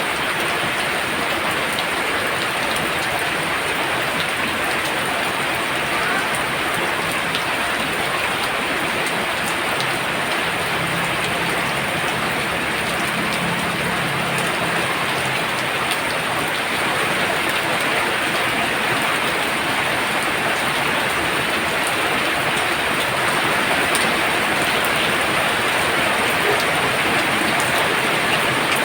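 Very heavy rain pouring down steadily, a dense hiss of drops on surfaces that grows a little louder toward the end.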